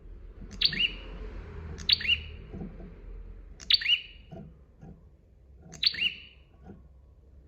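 Prinia (prenjak) calling: four loud, sharp, clipped call notes spaced one to two seconds apart, with fainter low notes between them.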